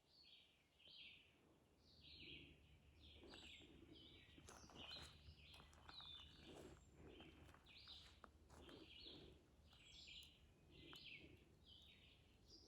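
Faint woodland birdsong: short, high chirping calls repeated about twice a second, with a few thin high whistles now and then.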